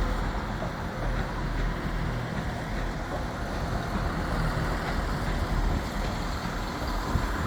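Diesel multiple unit's underfloor engines running at a station platform, a steady low rumble.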